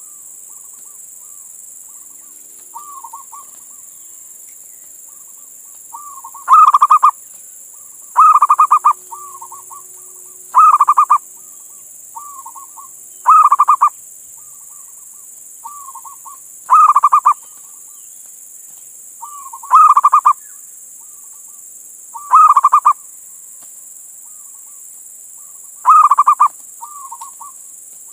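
Male zebra dove (perkutut) giving its cooing song, the male's call to females: eight loud, rapid phrases every few seconds, each with softer short coos between them. A steady hiss runs underneath.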